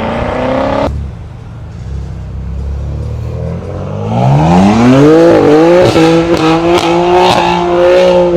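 Car engine revving hard as it pulls away. A low rumble gives way, about four seconds in, to an engine note that climbs steeply and stays at high revs.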